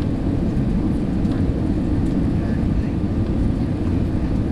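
Steady low rumble of an Airbus A320 in flight, its engines and airflow heard from inside the cabin.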